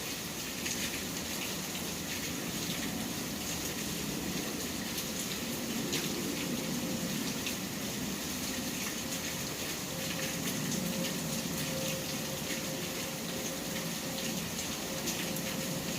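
Steady rain falling, a continuous hiss with many scattered drop ticks. A faint steady tone joins in the second half.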